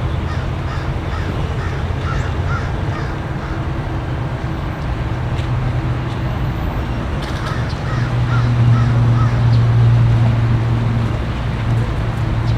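A bird calling in two runs of short, quickly repeated calls, over a steady low engine rumble that grows louder about eight seconds in.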